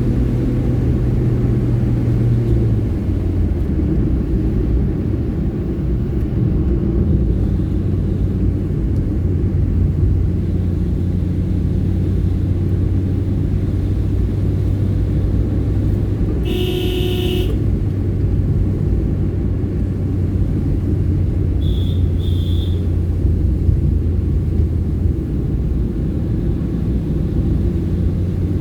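Hyundai i10 car driving along: a steady low engine and road rumble whose pitch shifts a few times with changing speed. About two-thirds of the way through, a loud pitched tone lasts about a second, and two short high beeps follow a few seconds later.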